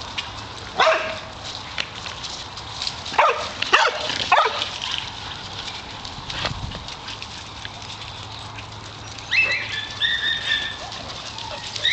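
A pack of dogs barking in scattered short bursts, with a cluster of barks in the middle and a higher-pitched, drawn-out cry near the end.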